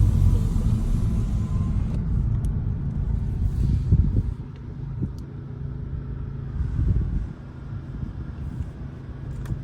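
Car driving, heard from inside the cabin: a steady low engine and road rumble that drops in level about four seconds in.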